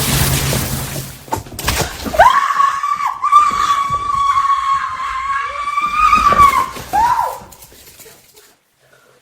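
A long, steady, high-pitched scream held for about four seconds, beginning about two seconds in after a stretch of music and noise.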